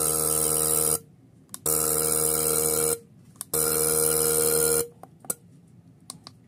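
A diesel injector nozzle on a hand-pump pop tester, buzzing as it sprays in three bursts of just over a second each. The nozzle now holds pressure before it opens, where earlier it leaked and dribbled.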